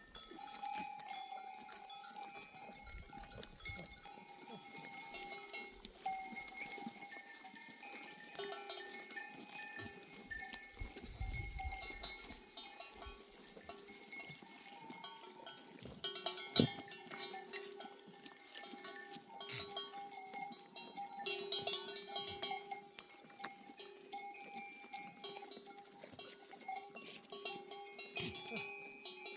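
Bells on a flock of sheep ringing and clanking as the animals move, several bells of different pitch overlapping and going on and off, with a few sharper clanks.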